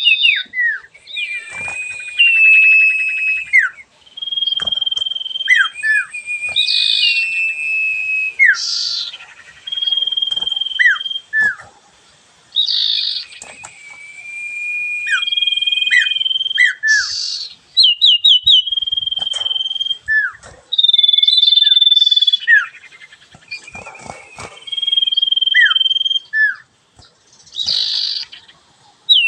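A songbird that its keeper calls a sirfu singing in full voice. It repeats long, level whistled notes of a second or two, mixed with rattling trills and short downward-slurred notes, with short pauses between phrases.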